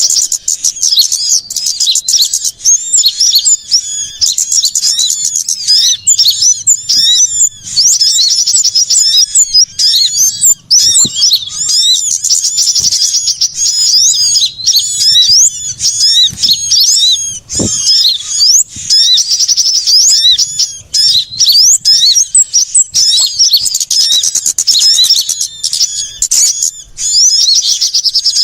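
Bird-lure (pikat) recording of many small songbirds chirping and twittering busily at once: a loud, dense, high-pitched chatter of overlapping quick calls without a pause, meant to draw small birds in.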